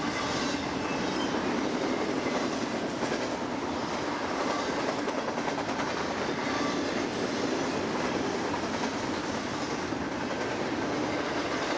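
Cars of a BNSF intermodal freight train rolling past: a steady noise of steel wheels running on the rails, with faint clicks over the rail joints.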